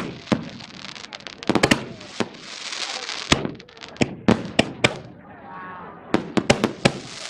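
Fireworks and firecrackers going off in a barrage: irregular sharp bangs, some in quick clusters, with a hissing crackle between them.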